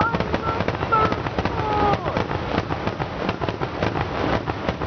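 Fireworks going off in a rapid, dense run of bangs and crackles, with no gaps between them.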